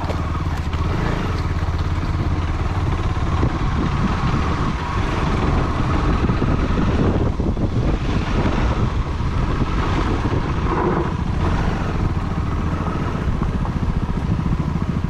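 Motorcycle engine running steadily as the bike is ridden along an off-road trail, getting rougher and louder for a few seconds around the middle.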